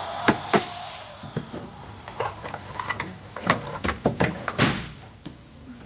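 Irregular plastic clicks and knocks: toy repair tools tapping and working on a toy car.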